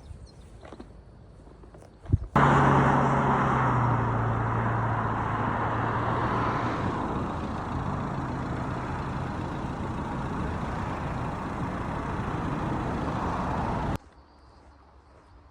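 An engine running loud and steady, starting abruptly about two seconds in and cutting off suddenly near the end.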